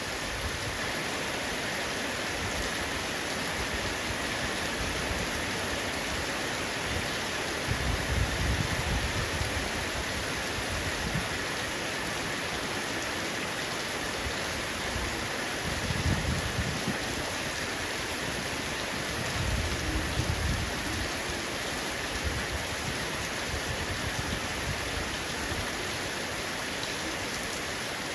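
Heavy rain falling steadily on a roof, a dense even hiss, with three brief low rumbles: about a third of the way in, just past the middle, and again a few seconds later.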